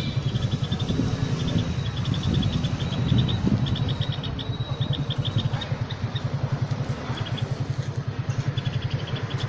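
An engine, most likely a motorcycle, idling with a fast, even beat, while a bird gives quick runs of high, sharp chirps. The chirps come in bursts, mostly in the first half and again near the end, typical of a parent bird's alarm calls around its fallen chicks.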